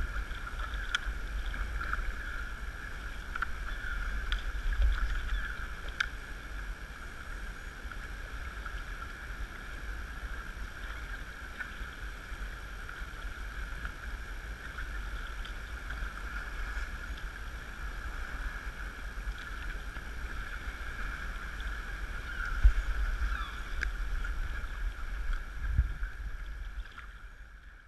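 Water sloshing around a sea kayak on the move, with steady hiss, low wind rumble on the microphone and a few small knocks, the loudest about three-quarters of the way through. The sound fades out at the very end.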